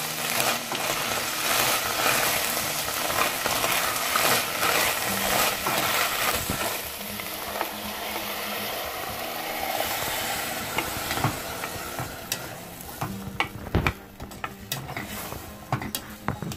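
Fresh green peas sizzling in oil in a stainless steel pot while a plastic spoon stirs them, with scraping and clicking against the pot. The sizzle dies down in the last few seconds, leaving sharper knocks and clicks of the spoon.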